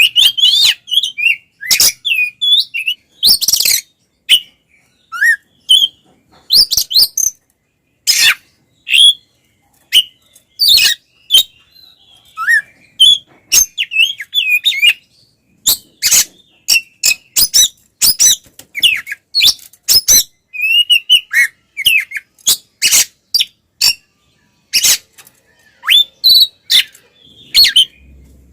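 Oriental magpie-robin (kacer) singing a loud, varied song: quick whistled sweeps mixed with sharp, harsh notes in rapid strings, with short pauses between phrases. This is the bird's aggressive fighting-mode song, known to bird keepers as 'ngeplong tarung'.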